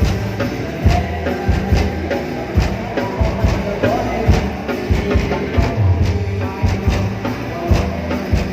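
Music with a heavy drum beat and deep bass played loud through a Thai parade truck (rot hae) sound system, a strong beat landing a little under once a second.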